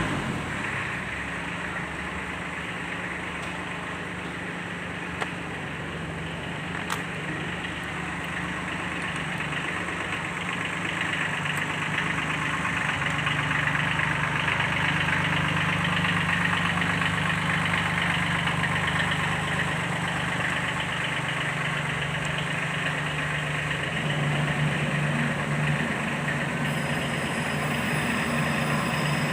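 Sunshine L1-255 tractor's D1462-TV diesel engine idling steadily, getting a little louder about ten seconds in.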